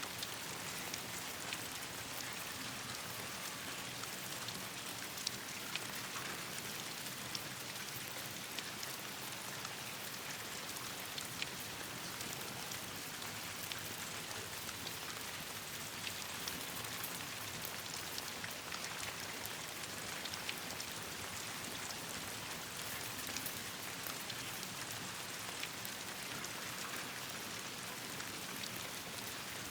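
Steady rain falling, with many small sharp ticks and pops scattered through it.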